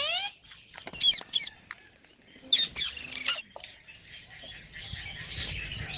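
Pet green parrots giving a series of short, shrill squawks, mostly in the first three and a half seconds, after a rising call at the very start.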